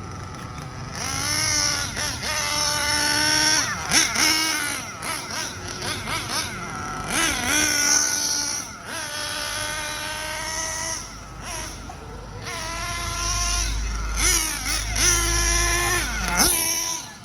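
Nitro engine of a Hobao Hyper VS RC buggy being run in, revving up and down over and over as the buggy drives, its high whine rising and falling with the throttle. The engine is quieter in the first second and briefly drops off a couple of times.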